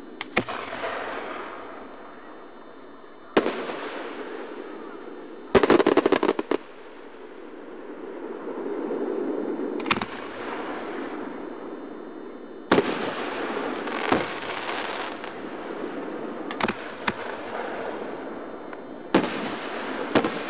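Aerial fireworks: shells bursting with sharp bangs every few seconds, each followed by a drawn-out trailing tail. About six seconds in comes a rapid run of close-spaced cracks lasting about a second.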